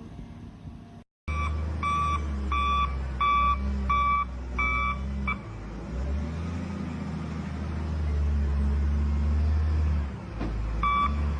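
Heavy diesel machine reversing: a backup alarm beeps steadily, about one beep every half second or so, over a low engine drone. The beeps stop about five seconds in, while the engine keeps running, and start again near the end.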